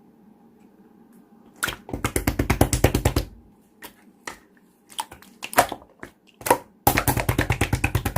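Slime being pressed and squeezed by hand, making two long runs of rapid crackling clicks and a few single pops in between.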